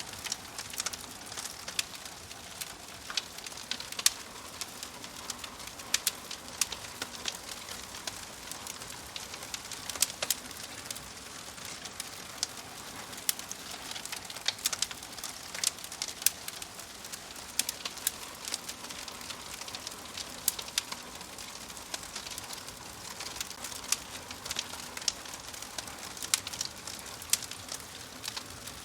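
Fireplace fire crackling: a steady soft hiss with frequent sharp pops and snaps at irregular intervals.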